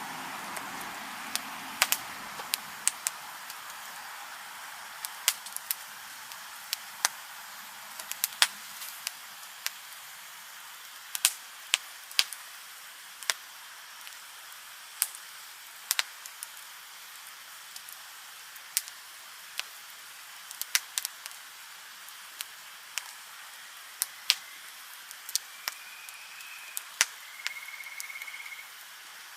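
Wood fire crackling: sharp, irregular pops and snaps over a steady soft hiss of burning. Near the end there are two brief high whistles.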